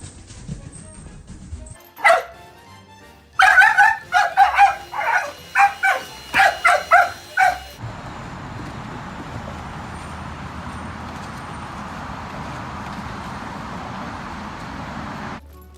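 A dog barking: one sharp bark about two seconds in, then a quick run of about ten loud barks. After that comes a steady hiss for several seconds, which cuts off suddenly near the end.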